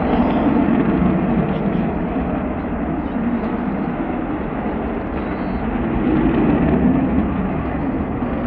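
Avro Vulcan XH558's four Rolls-Royce Olympus turbojets in a flyby: loud, steady jet noise that swells and eases slowly, loudest near the start and again about six to seven seconds in.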